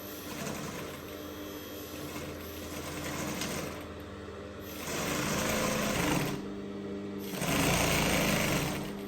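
Electric sewing machine stitching, running lightly and then in two louder spells, from about five seconds in and again near the end.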